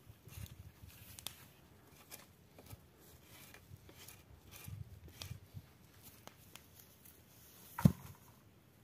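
Faint scattered rustling and small clicks, with one sharp knock near the end.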